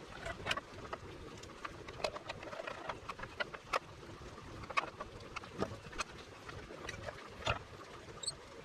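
Irregular light clicks and taps of small parts and tools being handled on a workbench, one or two a second.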